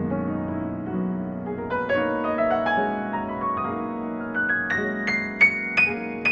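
Background piano music: a melody of struck notes climbing gradually in pitch, with higher, sharper notes ringing out over the last couple of seconds.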